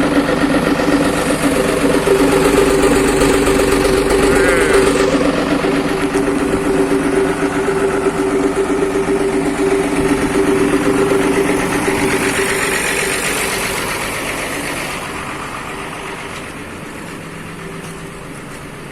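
Bus engine running through a newly fitted aftermarket exhaust, giving a loud, steady drone that sounds fierce, then fading away over the last several seconds.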